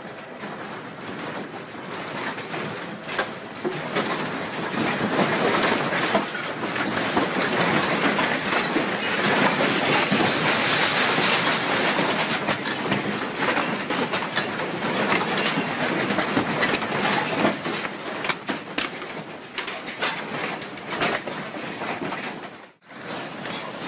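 An office shaking in a strong earthquake: a dense rumbling rattle and clatter of furniture, equipment and loose objects, building up over the first few seconds and easing toward the end, with a brief sudden break near the end.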